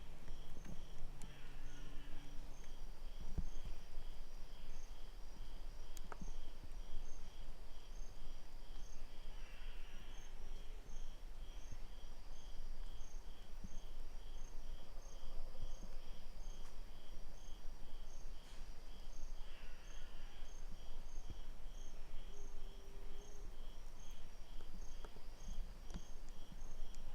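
Insects calling: an even, unbroken pulse of short high chirps, about one and a half a second, over a continuous high buzz, with a few faint clicks.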